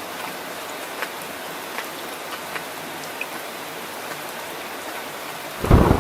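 Heavy rain falling steadily, an even hiss with scattered drop ticks. Near the end a loud, deep thunder rumble breaks in suddenly.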